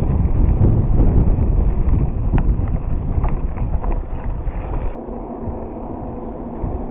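Wind buffeting the microphone of a moving bicycle, with low rumble and a few light clicks or rattles in the middle. About five seconds in, the noise drops and a faint steady hum comes in.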